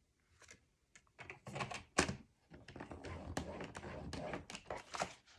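Cardstock tapped and set in place on a scoring board, then a scoring tool drawn along the groove with a steady scraping sound.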